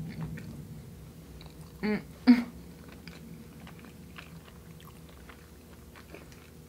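Close-up chewing of a mouthful of soft peanut-butter-cream donut, with small wet mouth clicks throughout. About two seconds in there are two short vocal sounds in quick succession, the second the loudest.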